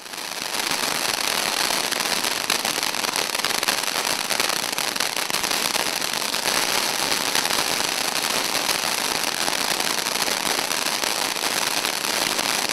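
Ground firework fountain spraying sparks: a steady, dense hissing crackle that starts suddenly and keeps going without letup.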